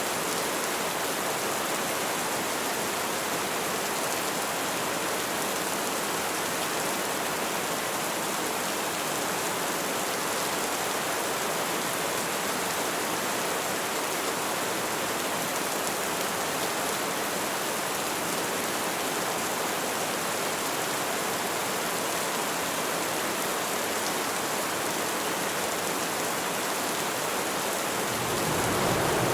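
Heavy rain falling steadily, an even hiss of dense drops. Near the end a deeper, louder rumble swells in beneath it.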